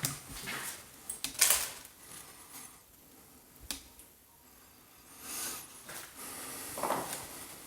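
Scattered clicks and knocks in a small, bare room as people move about and handle things, the loudest about a second and a half in, with short rustles around five and seven seconds.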